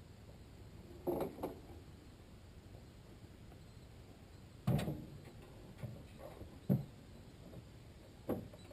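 A few separate clunks and knocks from a pickup-truck crane and its hanging generator being worked. The loudest come about halfway through and a little after.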